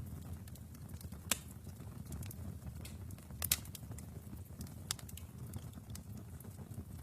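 Wood fire burning in a fireplace: a low steady rumble with sharp crackles and pops, the loudest about a second in, a quick double pop near the middle and another a little later.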